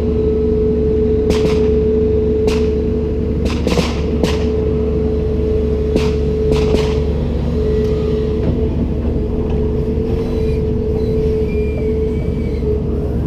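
Komatsu PC290-10 excavator running, a steady low rumble with a held whining tone. Sharp knocks sound several times in the first half.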